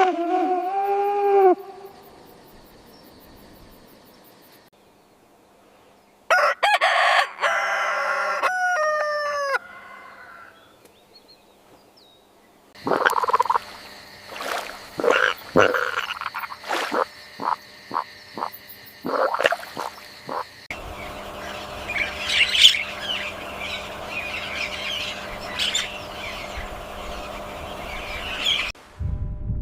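A string of different animal calls, one after another. First a short pitched call, then a longer call in several falling notes, then a run of sharp croaks and clicks, and finally a busy stretch of chirps over a steady hiss.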